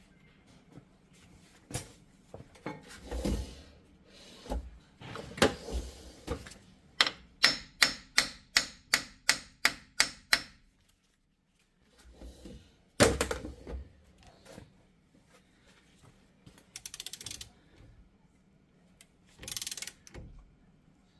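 Hammer striking the end of a Jeep Wrangler's front axle shaft: scattered metal clanks, then about a dozen quick, even light taps, about three a second, then one harder hit. The taps are meant to free the axle, which is being dragged out along with a seized hub bearing.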